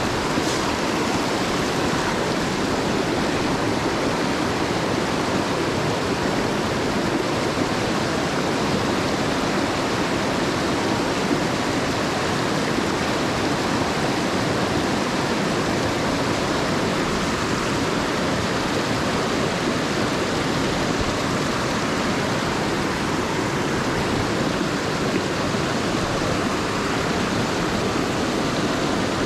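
Mountain stream water rushing over rocks, a steady, unbroken sound.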